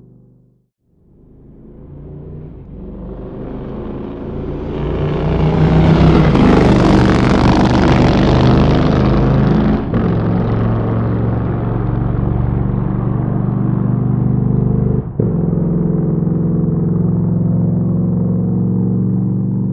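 A motorcycle engine fades in about a second in and grows louder over several seconds. It then runs steadily at an even pitch, with two brief dips in sound near the middle and about three-quarters of the way through.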